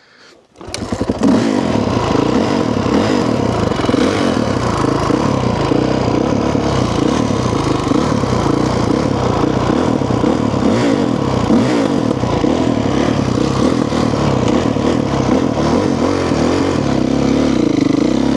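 Honda CRF450 dirt bike's single-cylinder four-stroke engine running under riding load, revs rising and falling with the throttle. It comes in suddenly under a second in.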